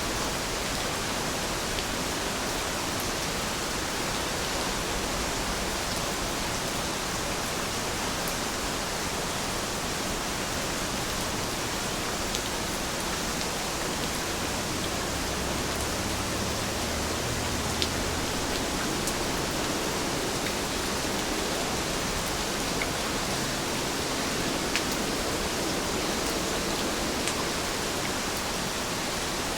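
Steady rain falling, heard as an even hiss with occasional faint drop ticks.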